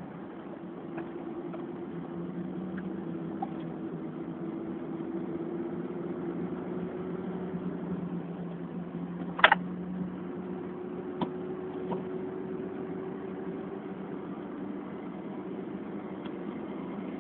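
A Nissan 1.4 race car's engine running on track, heard from inside the cabin, its note rising slowly under acceleration. About nine and a half seconds in comes a sharp knock and the note breaks briefly, then carries on, with a couple of faint ticks soon after.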